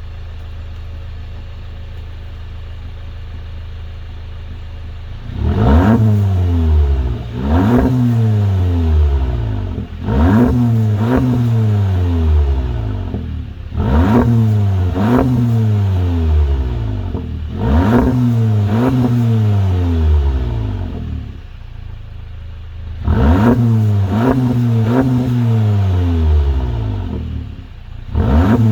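2019 VW Golf GTI's 2.0-litre turbocharged four-cylinder through a Milltek GPF-back exhaust with the resonator deleted: idling steadily, then blipped repeatedly from about five seconds in, each rev rising sharply and falling back more slowly in pitch, settling briefly to idle about two-thirds through before more revs.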